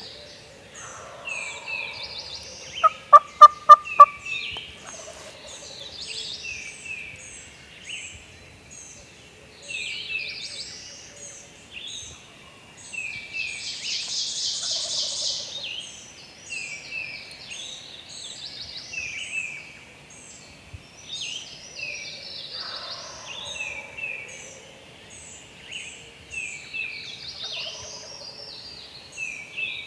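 Wild turkey gobblers gobbling several times at a distance, over songbirds singing steadily. About three seconds in come five loud, sharp, evenly spaced calls close by.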